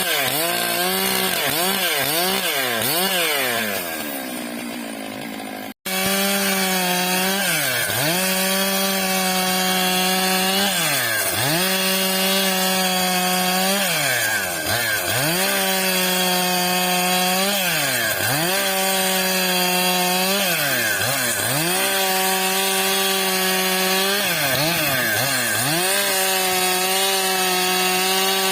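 Stihl MS 661 two-stroke chainsaw ripping a eucalyptus log lengthwise, its engine held at high revs and dipping and recovering about every two seconds as it loads in the cut. There is a sudden break about six seconds in, after which the cutting carries on.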